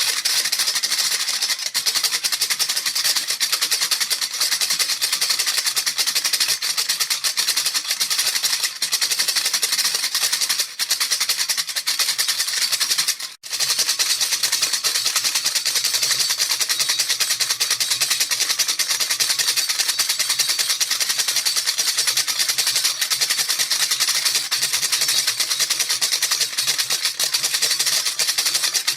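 A rattle shaken rapidly and steadily, its beads making a dense, even hiss of tiny clicks, with a brief break about 13 seconds in.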